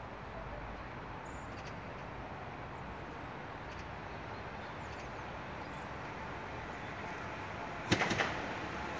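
Koleje Śląskie Elf 27WEb electric multiple unit approaching, heard as a steady hiss of rolling noise that grows slightly louder; about eight seconds in, a single sharp clack as its wheels hit a rail joint.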